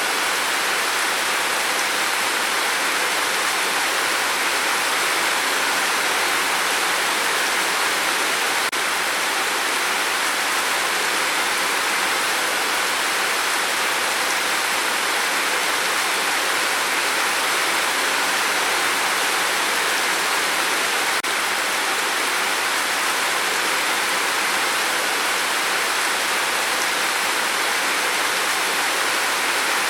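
Steady, heavy rain drumming on a tin roof, a dense even hiss with no separate drops standing out.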